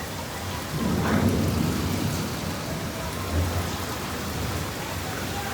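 Heavy monsoon rain pouring steadily, with a low rumble that swells about a second in and eases off over the next second or so.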